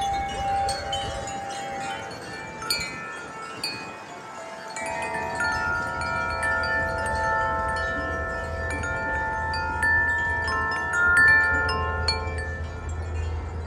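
Wind chimes ringing in gusty wind, with many overlapping tones struck again and again and each note sustaining. A low rumble comes in about five seconds in.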